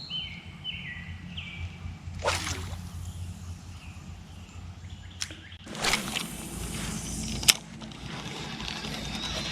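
Outdoor river-bank sound over a steady low rumble. Birds chirp briefly at the start, followed by a few sharp swishes and clicks from a fishing rod and reel casting and retrieving a spoon lure.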